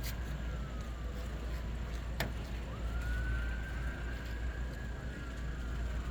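Steady low street rumble with a faint siren wailing over it, rising and falling slowly in long arches. A single sharp click comes about two seconds in.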